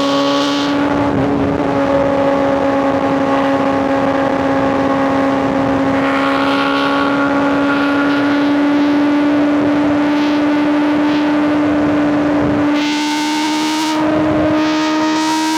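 Inline-four superbike engine and exhaust pulling steadily at highway speed, its pitch creeping slowly upward as it accelerates gently in one gear. About twelve seconds in the throttle briefly eases off, then it pulls again.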